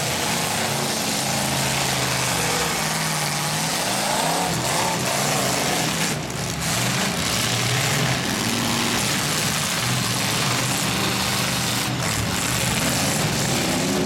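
Several demolition derby pickup truck engines running and revving at once, their pitches rising and falling over one another.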